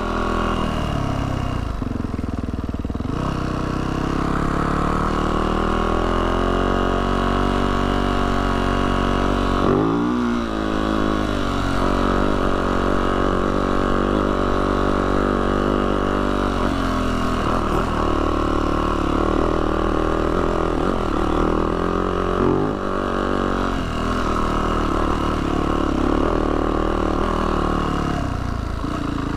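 Yamaha YZ450F dirt bike's single-cylinder four-stroke engine running, its pitch rising and falling with the throttle, with a marked dip and swing about ten seconds in.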